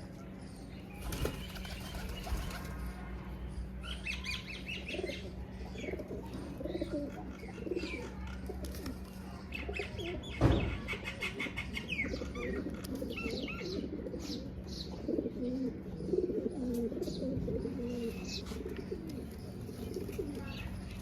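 Pigeons flapping their wings in several short bursts, with low cooing through much of the time and a sudden loud thud about halfway, over a steady low hum.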